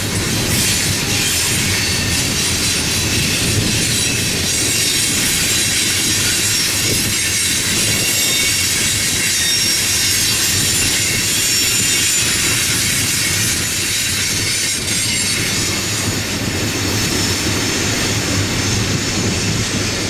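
Freight train cars rolling past on steel rails, with a steady rumble and clatter of the wheels and a high, continuous wheel squeal over it.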